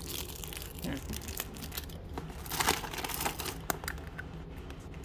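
Crinkly packaging being handled and torn open by hand: a run of irregular rustles and crackles, loudest a little past halfway.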